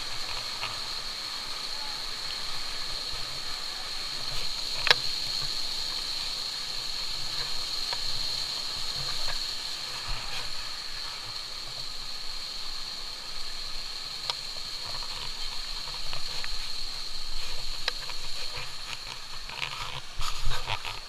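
Steady rush of flowing stream water, with scattered light knocks and scuffs, the loudest about five seconds in and near the end.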